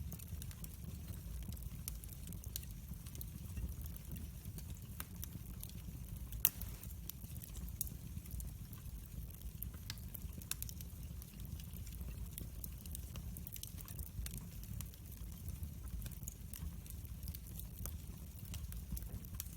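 Wood fire burning in a fireplace: a low steady rumble of flames with scattered crackles and pops, one sharper pop about six seconds in.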